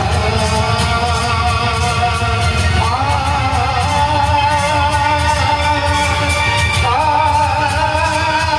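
A song: a voice sings long held notes, each entering with a slight upward slide about three and seven seconds in, over a full instrumental backing with a heavy bass.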